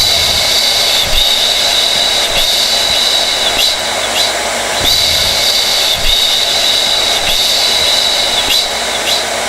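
Hair dryer running steadily: a rushing airflow with a high motor whine, the whine dipping slightly about every second and a bit.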